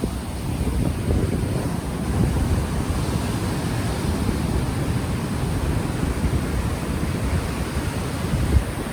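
Ocean waves washing on the shore under a steady, low rush of wind buffeting a microphone that has no windscreen.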